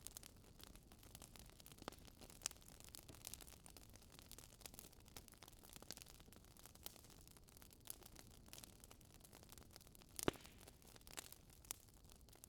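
Faint crackling of a wood fire in a fireplace: irregular small pops and snaps over a low hiss, with one louder pop about ten seconds in.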